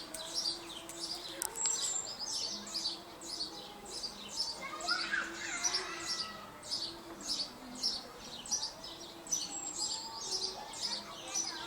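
Small birds chirping in a quick repeated series, about two or three short high chirps a second, keeping on without a break.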